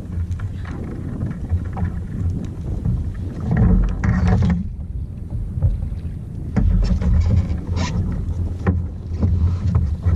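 Wind buffeting the microphone, with water splashing around a kayak in louder washes about four seconds in and again a little later.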